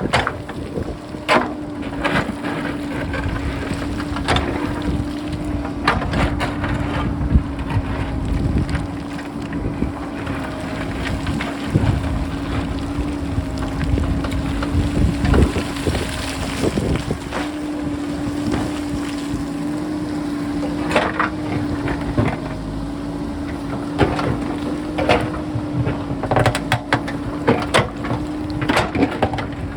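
JCB backhoe loader's diesel engine running with a steady hum, while rocks clatter and knock against the bucket and roll down the hillside in scattered bursts. Wind rumbles on the microphone.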